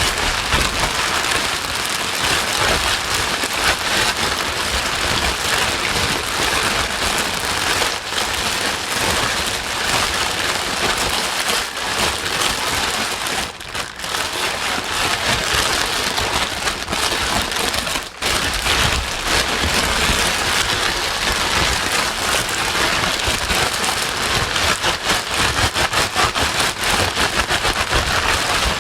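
Steady rain-like white noise, a dense even hiss with fine pattering texture, played loud as a soothing sound for a crying baby. It dips briefly twice, about 14 and 18 seconds in.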